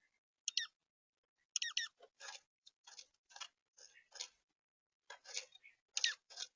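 Small songbirds at a seed feeder: short high chirps with quick pitch flicks, mixed with rapid clicks and scratchy crackles from pecking at seed.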